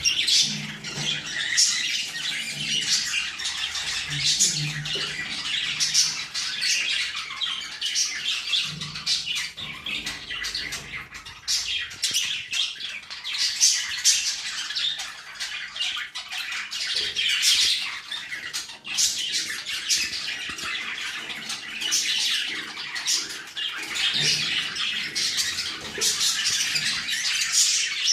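Budgerigars chattering and squawking without pause.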